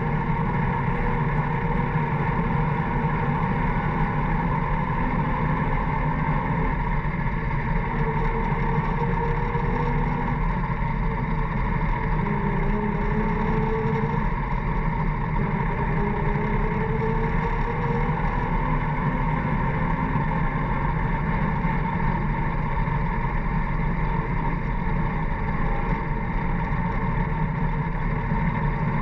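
1940s Allis-Chalmers grader's engine running steadily, with a slight rise and fall in pitch.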